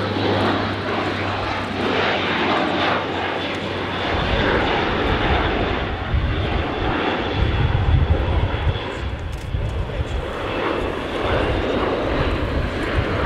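Airbus A400M's four TP400 turboprop engines and propellers running in flight. A deep rumble swells from about four seconds in and is loudest around eight seconds, as the aircraft passes.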